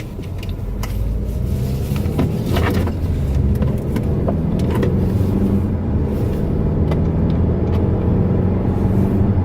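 Car driving on the road, heard from inside the cabin: a steady engine and road rumble that settles in over the first couple of seconds, with a few light clicks.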